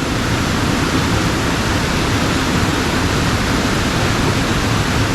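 Mountain stream water rushing and tumbling over rocks, a steady, even rush with no breaks.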